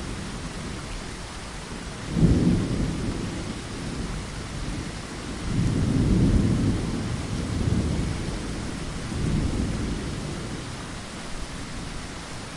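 Steady rain falling on a window, with thunder rumbling under it. A sharp clap about two seconds in rolls on, followed by longer swelling rumbles through the middle.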